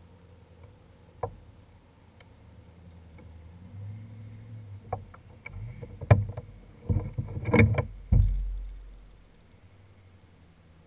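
Knocks and clatter on a kayak: one sharp click about a second in, then a run of bumps loudest about six to eight seconds in, ending in a low thump that dies away.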